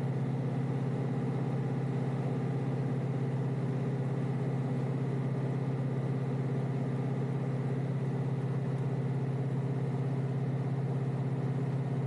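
Kioti DK5320SE tractor's diesel engine running at a steady speed, heard from inside the closed cab as an even, unchanging drone.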